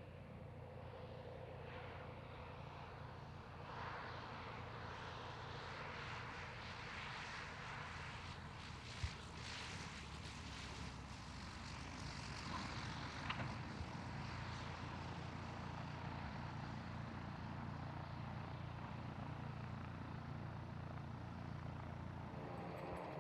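Light propeller aircraft's piston engine droning at a distance over a steady low hum. The engine noise swells about four seconds in, is loudest for several seconds, then eases off. A sharp click sounds about nine seconds in.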